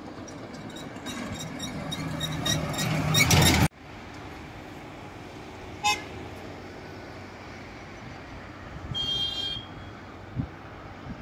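Kalka-Shimla narrow-gauge toy train running past, a low hum with quick clattering clicks getting louder until the sound cuts off suddenly. Later there is a very short toot and, about nine seconds in, a half-second horn blast.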